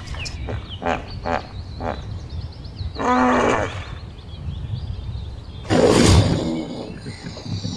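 A big cat growling and roaring: a shorter pitched roar about three seconds in, then a louder, rougher roar about six seconds in.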